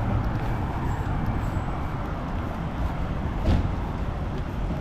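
Road traffic on a city street: a steady rumble of passing vehicles, with one short knock about three and a half seconds in.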